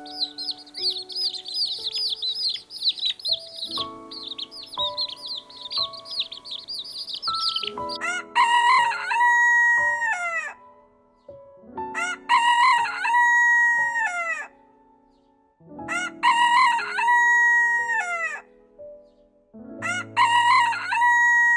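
Songbirds chirping and trilling over soft background music. Then a rooster crows four times, one long crow about every four seconds.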